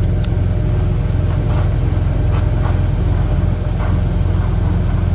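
Idling truck engine running steadily with a low drone, with a few faint clicks on top.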